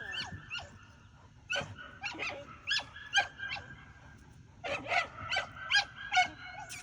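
A gun dog whining and yipping in about a dozen short, high-pitched cries that drop in pitch, coming in quick bunches.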